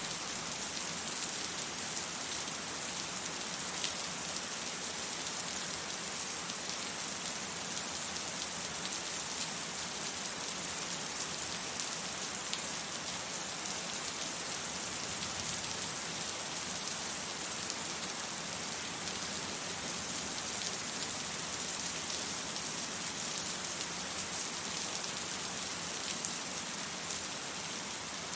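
Steady rain falling and pattering on surfaces, a dense hiss with scattered drop ticks.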